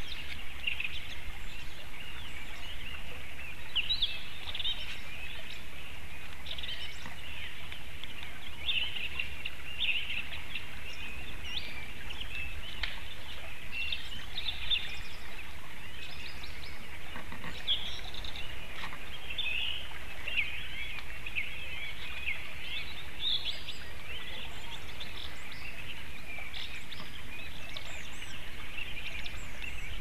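Birds chirping and calling in the woods: many short, overlapping calls throughout, over a low steady rumble.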